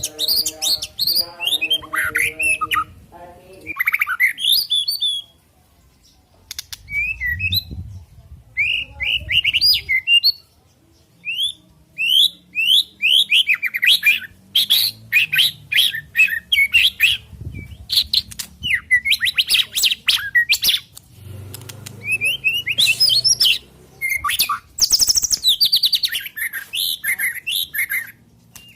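White-rumped shama singing a rapid, varied song of clear whistles, chattering trills and sharp notes, in bursts with short pauses. A lower, steady multi-toned sound runs under the song for the first three seconds.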